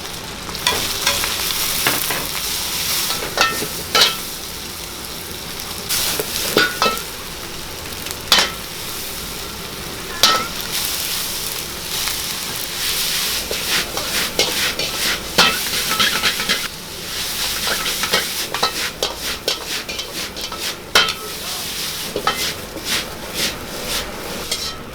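Food sizzling in hot oil in a wok as it is stir-fried, with a metal ladle scraping and knocking against the pan many times, some strikes ringing briefly.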